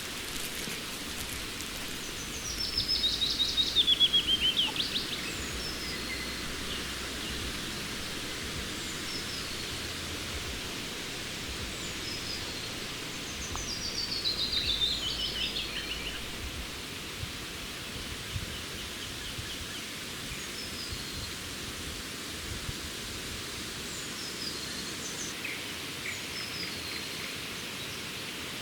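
A songbird singing twice, each song a fast series of notes falling in pitch and lasting about two seconds, with other birds calling faintly over a steady background hiss.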